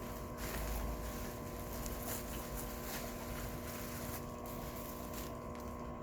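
Steady electrical hum with a low rumble, and faint rustles of a package of insect specimens being handled and opened.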